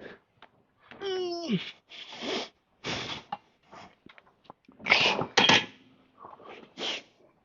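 A man breathing hard through a set of cable machine reps: short, sharp hissing exhalations every half-second to second, with a strained grunt about a second in that falls in pitch.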